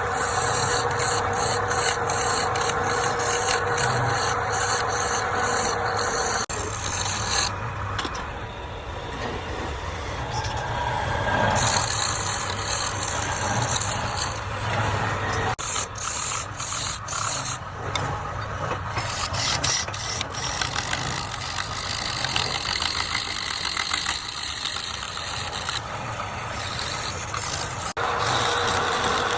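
Woodturning lathe running, a steady motor hum under the scraping hiss of a tool cutting into the spinning wood. The sound changes abruptly a few times.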